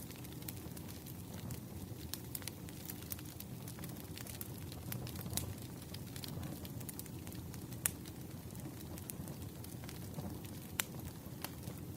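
Campfire burning: a low steady rumble with irregular sharp crackles and pops of the burning wood, a few standing out louder about eight and eleven seconds in.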